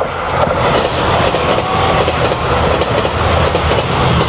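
Super Hakuto limited express, a Chizu Express HOT7000-series diesel train, passing close by. A loud, steady rumble of wheels on rail holds throughout.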